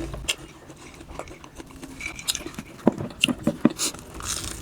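A person chewing food close to the microphone, with wet mouth clicks and smacks. They cluster about three seconds in.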